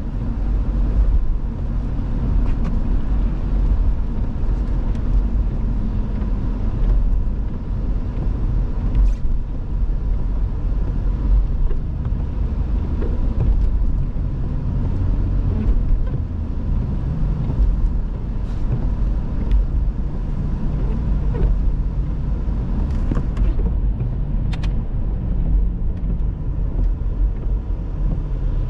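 A car driving: a steady low rumble of engine and tyre noise heard from inside the cabin.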